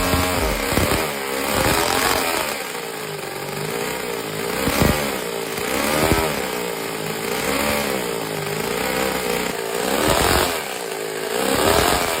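Small engine revving up and down over and over, its pitch rising and falling about every two seconds, with a few sharp knocks in between.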